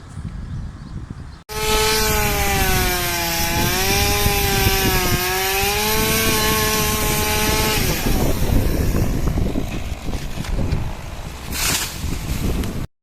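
Stihl MSA 200 battery chainsaw cutting into a palm trunk: a high electric-motor whine that sags in pitch and recovers as the chain bites, lasting about six seconds. After it stops comes a rough noise with no whine in it.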